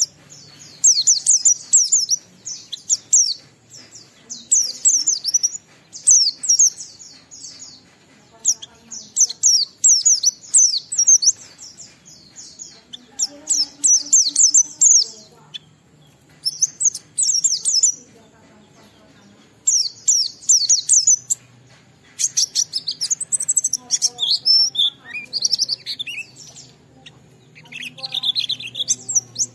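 White-eye (pleci) singing in bursts of fast, high twittering phrases, each a second or two long with short pauses between. Late on, the phrases turn lower and change to different notes.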